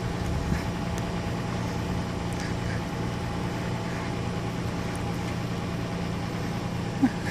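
Jeep Wrangler engine running at a steady speed as the Jeep struggles in deep snow, its note holding even with no revving up or down. A brief sharp sound comes near the end.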